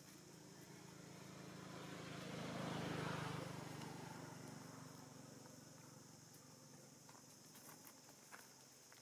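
A motor vehicle passing by: its engine hum and road noise grow louder to a peak about three seconds in, then fade away.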